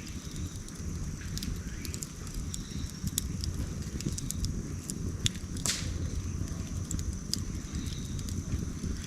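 Wood campfire crackling, with scattered sharp pops and one louder pop a little over halfway, over a steady low rumble.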